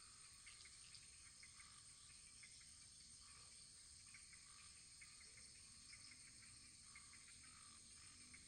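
Faint wood fire crackling in a fireplace: a steady low hiss with many small irregular pops and snaps.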